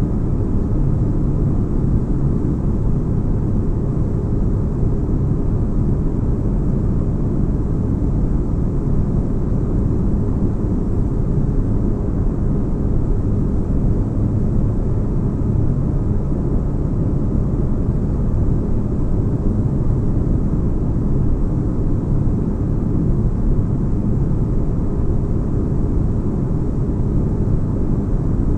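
Sci-fi spaceship-interior ambience: a steady, unchanging deep bass drone of noise, like a ship's engines heard from inside the cabin, made as white noise for sleep.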